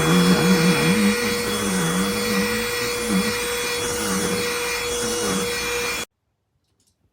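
Cordless BLACK+DECKER Dustbuster handheld vacuum running, its motor note steady with a lower hum that wavers up and down as it works, stopping abruptly about six seconds in.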